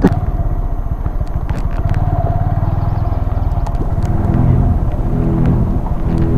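Honda Grom's 125 cc single-cylinder engine running steadily as the bike is ridden along, heard from the rider's seat.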